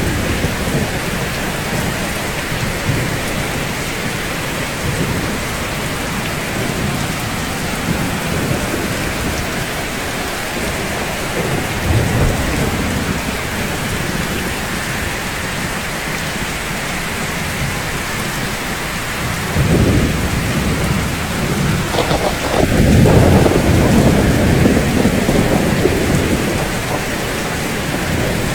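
Steady rain with low thunder rumbling; a longer, louder roll of thunder comes about two-thirds of the way in.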